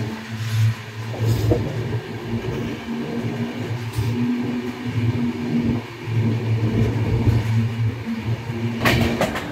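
Running noise of an express passenger train heard from aboard: a steady low hum over the rumble of the wheels on the track, with a few sharp clicks near the end.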